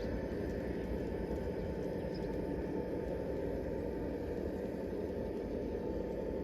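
Model train running on its track: a steady hum and rumble with a faint high tone and a few light ticks.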